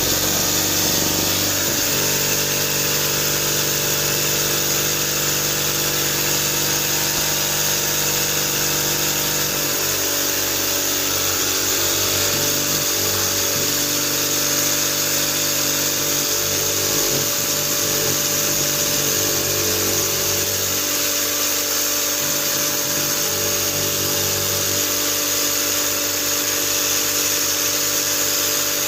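Electric jigsaw, mounted upside down in a table with a toothless knife-edge blade, running steadily while cutting t-shirt fabric into rags. The motor hum shifts slightly at times, as the blade meets the cloth.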